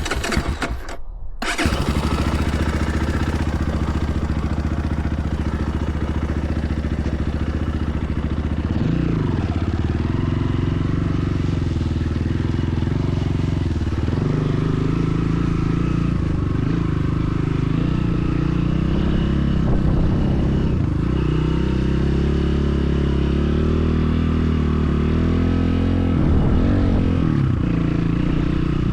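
BSE enduro motorcycle engine running under way. The engine note dips and picks up again several times, as with throttle changes or gear shifts.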